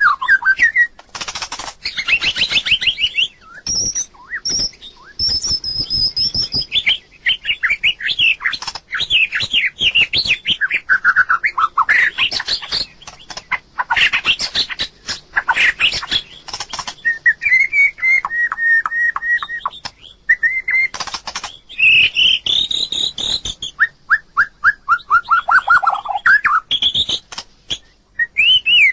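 White-rumped shama singing a long, varied song: fast repeated notes, clear whistles and trills sliding up and down in pitch, with many sharp clicks between the phrases.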